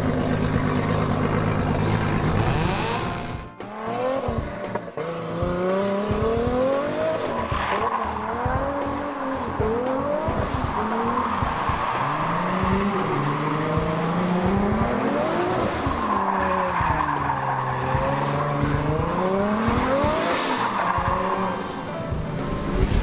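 A drift car's engine revving up and down over and over through a drift run, with tyres squealing. The first few seconds hold an engine at steady revs before an abrupt cut.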